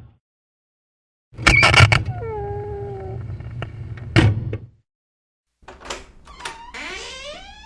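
Door hinges creaking in two short clips. First a rattle, then a creak held at one pitch for about a second, then a bang as the door shuts. After a brief gap come a few clicks and a creak rising in pitch near the end.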